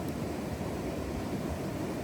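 A steady low rushing noise with no distinct knocks or clicks.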